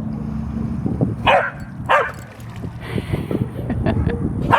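Dog barking: two short barks about half a second apart, a little over a second in, and another at the very end, over wind rumble on the microphone.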